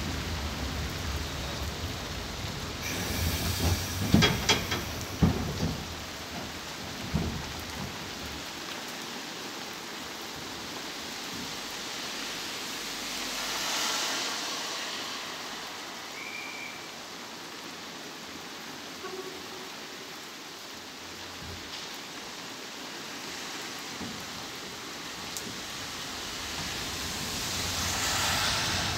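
Heavy rain hissing steadily over an open-air narrow-gauge railway car. In the first few seconds a low rumble and a quick cluster of sharp knocks are the loudest sounds. Later the hiss swells twice, once around the middle and once near the end.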